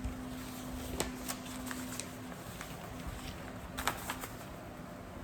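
Quiet background hiss with a faint steady hum and a few soft clicks, one about a second in and two close together near four seconds in.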